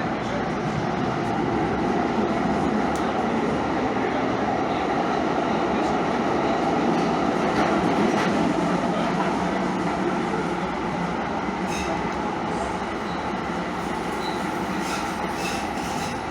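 Train running on rails: a steady rumble of wheels and track that swells a little midway and eases off toward the end.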